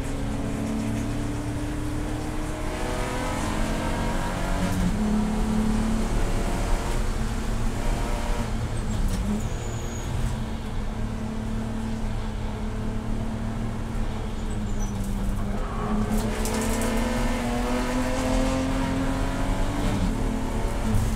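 Race car engine running under load, its pitch rising and falling several times as the revs climb and drop, over a heavy low rumble.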